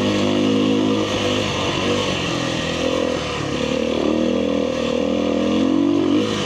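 Kawasaki KLX300R dirt bike's single-cylinder four-stroke engine running under way on a trail. Its pitch rises and falls gently with the throttle.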